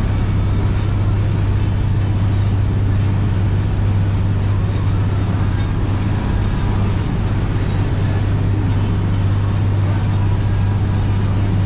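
Motorboat engine running steadily underway: a constant low drone with an even rush of noise over it.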